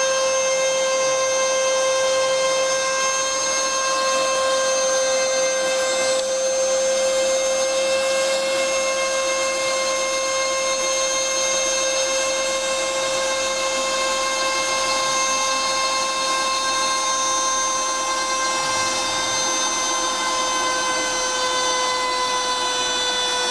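CNC router spindle whining steadily at high speed while milling, with cutting noise under the whine. The pitch sags slightly near the end.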